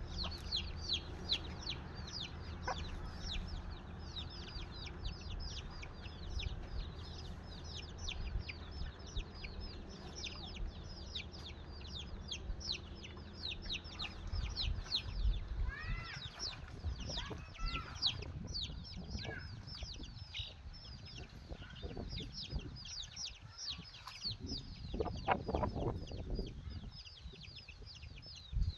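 Desi (country) chickens calling: a constant stream of high, falling peeps, several a second, with lower clucks around the middle and again near the end.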